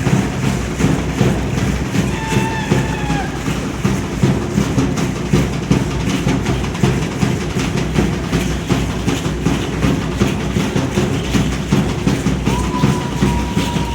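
Aztec dance drumming: a drum beating a steady rhythm under constant rattling, with a short held tone about two seconds in and a longer held tone near the end.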